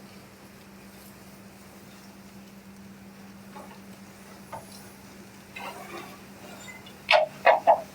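A low steady hum in the background, then three short, sharp knocks or clatters in quick succession near the end, loud against the quiet.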